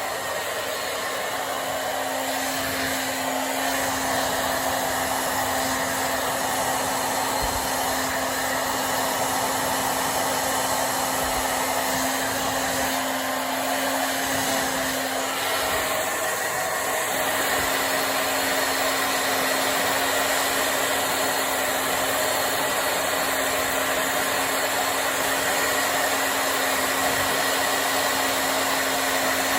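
Hair dryer blowing continuously: a steady rush of air with a constant motor hum, getting slightly louder in the first few seconds.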